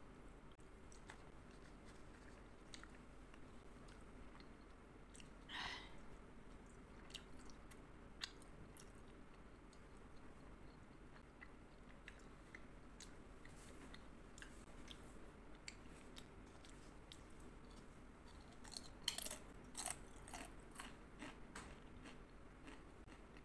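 Gummy candy being chewed close to the microphone: faint, soft wet mouth clicks and smacks, a little louder about six seconds in and again around twenty seconds in.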